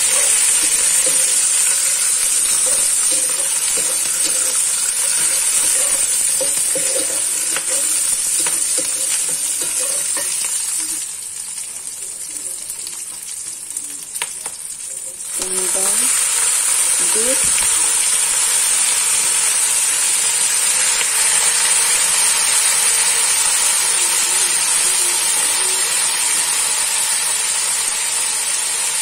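Onion wedges sizzling in hot oil in a wok, stirred with a wooden spatula. The sizzle drops for about four seconds midway, then picks up again with a light knock.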